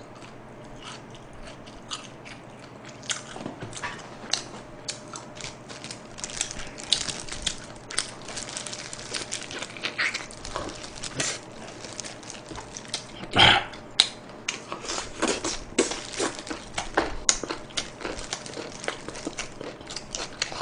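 A person biting and chewing soy-glazed fried chicken, with many small wet clicks and crackles, and one louder sound about two-thirds of the way through.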